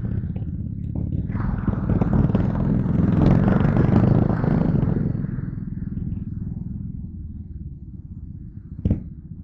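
Yamaha Crypton R's single-cylinder four-stroke engine running under way, growing louder with rushing wind for a few seconds in the middle, then easing off. A short knock comes near the end.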